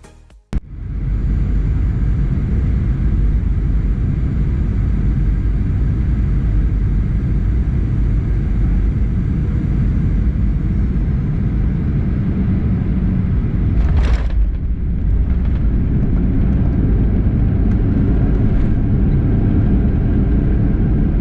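Boeing 737-800 cabin noise at a window seat on approach: a loud, steady rumble of the CFM56 engines and airflow. The engines' high whine eases down about ten seconds in, then a short sharp jolt about fourteen seconds in, the main wheels touching down.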